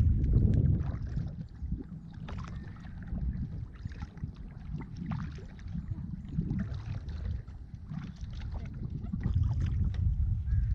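Kayak paddle strokes dipping and splashing in lake water, with wind buffeting the microphone, heaviest at the start and again near the end.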